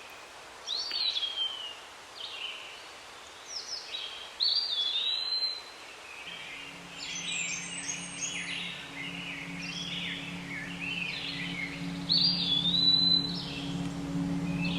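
Several birds chirping and whistling in repeated short calls, some with a falling or wavering whistle. About six seconds in, a low steady musical drone comes in underneath and holds.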